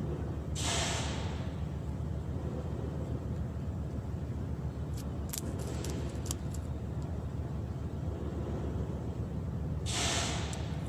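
Steady low rumble with two short hissing rushes, one about half a second in and one near the end, and a brief run of sharp clicks in the middle.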